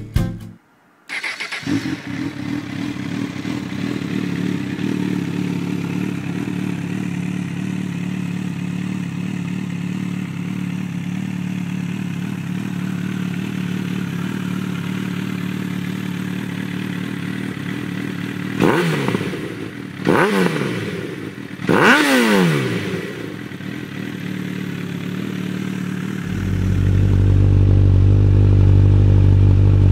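Honda CB1000 inline-four motorcycle engine starting about a second in and idling steadily through its exhaust. It is blipped three times in quick succession, each rev rising and falling back to idle. Later the running turns louder and deeper, with another rev near the end.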